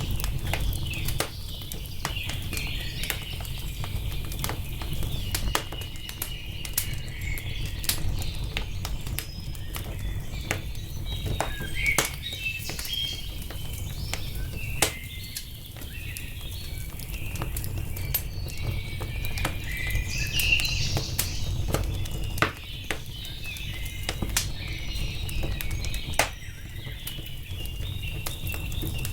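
Wood fire crackling, with scattered sharp pops (a few louder ones) over a steady low rumble, while small birds chirp and trill.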